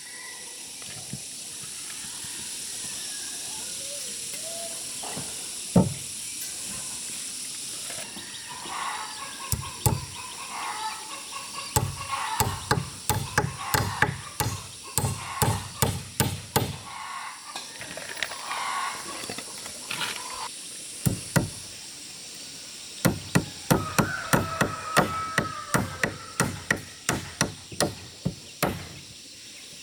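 Hammer striking wood in runs of quick blows, a few to several a second, with pauses between the runs.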